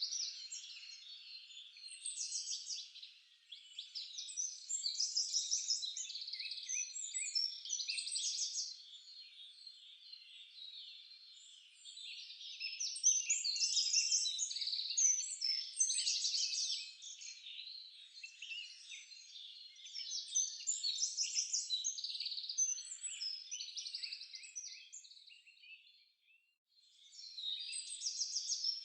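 Forest songbird chorus: several birds singing and calling at once, with high overlapping trills, chirps and short whistled phrases. The chorus thins to a brief lull near the end before picking up again.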